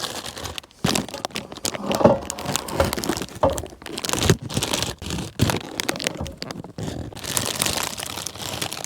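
Food packaging crinkling and rustling in irregular crackles, with small knocks, as frozen egg rolls are taken out and handled.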